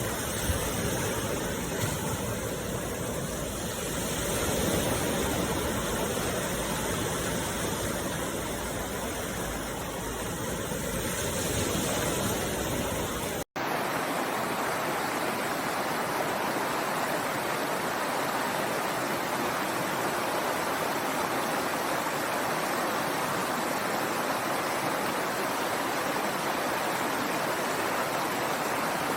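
Steady rush of falling water from a waterfall. About halfway through it cuts abruptly to a second recording of rushing water with much less bass and a brighter hiss.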